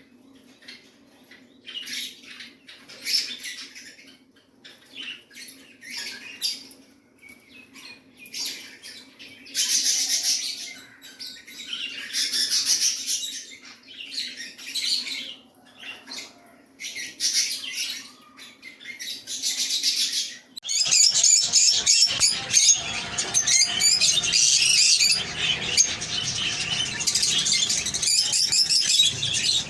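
Pet parrots calling in short, high-pitched chirps and squawks, with a steady low hum beneath them. About two-thirds of the way in, the hum stops and the calls turn into dense, continuous, louder chattering of several birds.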